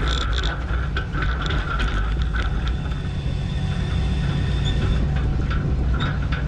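Tractor engine running steadily under load, with metallic clattering and rattling throughout.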